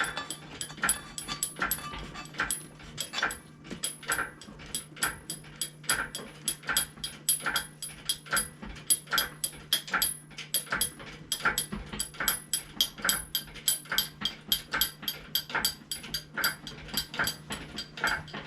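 Hydraulic engine hoist (cherry picker) being pumped by hand to lift an engine: rhythmic clicking and squeaking from the pump handle and jack, a stroke a little under once a second, over a steady low hum.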